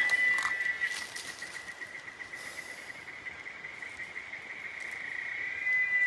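An insect trilling steadily at one high pitch. The trill fades about a second in and swells again near the end.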